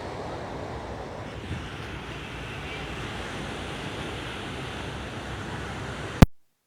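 Steady wash of sea surf with wind on the microphone. About six seconds in there is a sharp click, and the audio cuts out completely: a dropout in the live stream.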